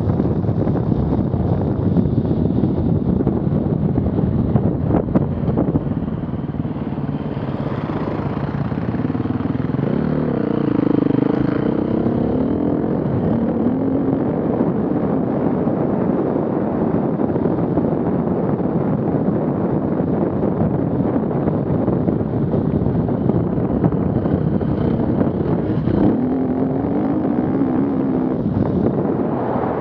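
Off-road vehicle engines running under a heavy, steady rumble, with an engine revving up and down about ten seconds in and again near the end.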